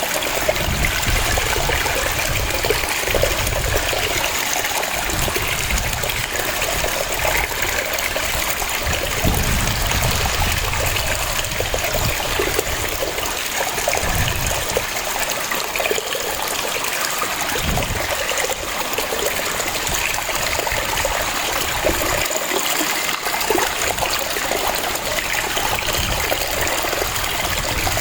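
Waterfall: water pouring and splashing steadily over rocks, an even rushing hiss with a shifting low rumble underneath.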